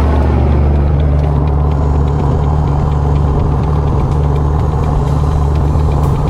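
Fishing boat's engine running at a steady speed, a constant low drone.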